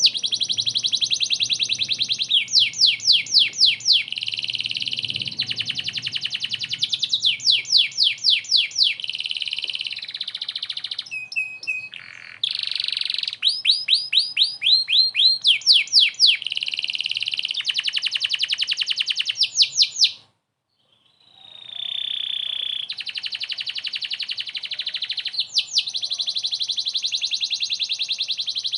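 Domestic canary singing continuously, a vigorous song of fast rolls and trills of rapidly repeated high notes, with a short break about twenty seconds in.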